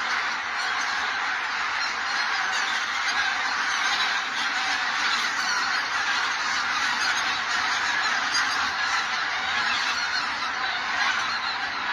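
A large flock of wild geese honking, many calls overlapping into a dense, continuous din.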